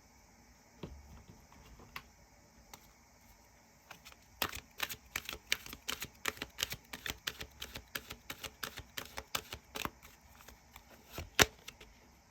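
Tarot cards being handled: a quick run of sharp clicks, about four or five a second for some six seconds, then one louder click near the end.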